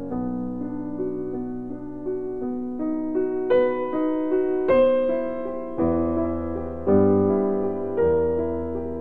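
Background piano music: slow, gentle notes and chords with a new note struck every half second or so, some held.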